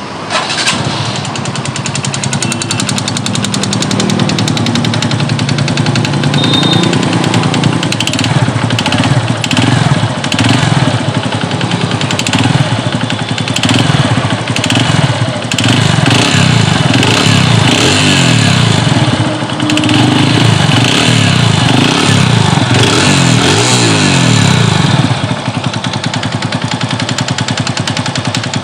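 TVS Radeon BS6's single-cylinder four-stroke engine running and being revved up and down repeatedly, with a fast mechanical clatter over the exhaust note. This is the piston noise of a scuffed, partly seized piston.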